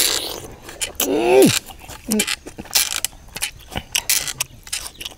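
Close-up chewing of a juicy tomato: wet smacking and clicking mouth sounds, with a short falling 'mmm' of enjoyment about a second in and a smaller one a little after two seconds.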